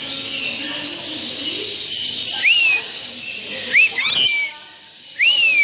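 Cage birds chattering and twittering together, with one bird giving loud whistles that rise and then fall, three times, and a sharp chirp about four seconds in.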